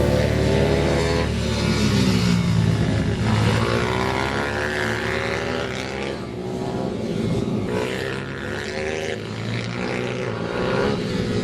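Several pit bikes' small single-cylinder engines revving as they race, their pitch rising and falling over and over as the riders throttle on and off.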